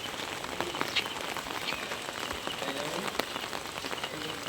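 Very heavy rain falling steadily, with many sharp close drop hits standing out from the hiss.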